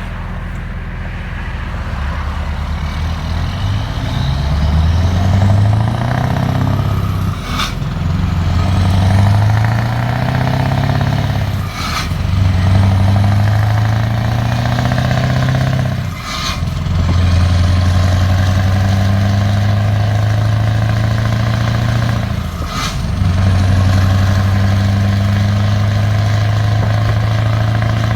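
Scania R620's 16-litre V8 diesel with a straight-pipe exhaust, pulling away and accelerating up through the gears: the engine note rises in each gear, then dips with a short burst of noise at each of four gear changes, the last two gears pulling longer and steadier.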